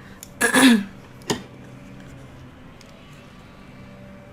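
A short, loud mouth noise from someone eating shrimp about half a second in, then a single sharp click a moment later, over a faint steady hum.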